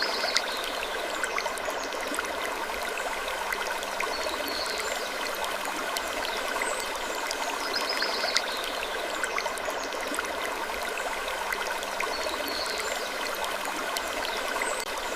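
Steady rushing hiss, like a stream, with scattered faint clicks. A short high-pitched figure repeats about every six and a half seconds.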